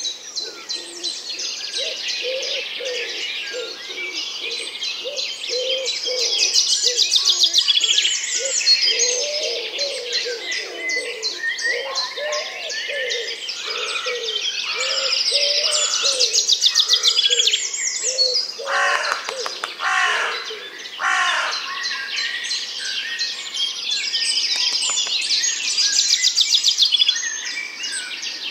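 A chorus of small birds chirping and trilling together, with a lower short call repeating about twice a second beneath them and a few louder rising whistles near the middle.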